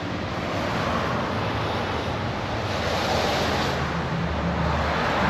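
Steady rushing noise, like wind on the microphone outdoors, with a low rumble growing stronger about four seconds in.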